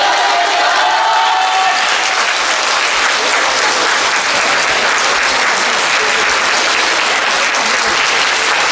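Audience in a hall applauding steadily, a dense wash of clapping.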